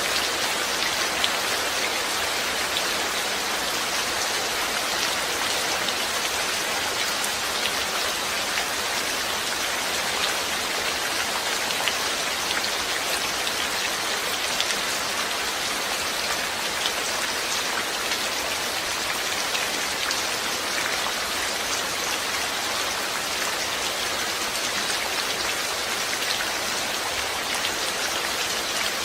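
Steady rain, with a dense patter of drops hitting a surface.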